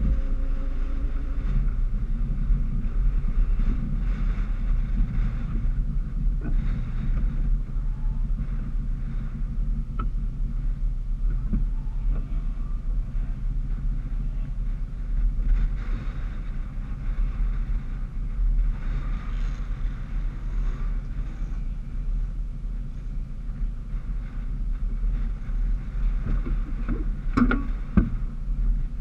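Car engine settling to idle in the first second or two, then idling steadily as a low hum. A few short clicks come near the end.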